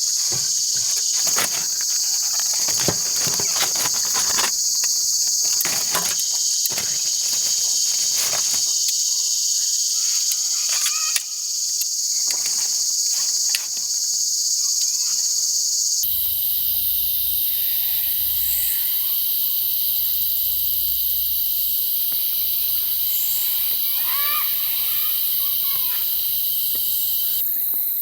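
Loud, steady chorus of chirring night insects, typical of crickets, with scattered clicks and knocks in the first half. About halfway through, the chorus changes abruptly in pitch and texture.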